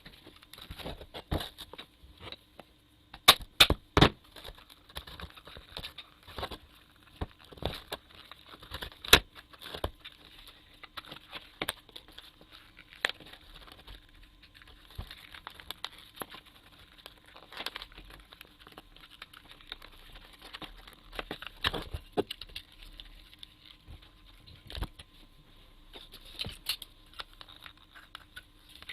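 Irregular clicks, taps and sharp knocks of parts and tools being handled as a small water circulation pump motor is taken apart, the loudest knocks coming about three to four seconds in and again near nine seconds.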